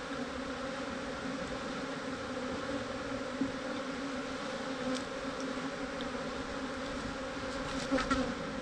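Steady buzzing drone of a mass of defensive honeybees flying around an opened hive, the colony agitated and trying to sting. A few light clicks near the end.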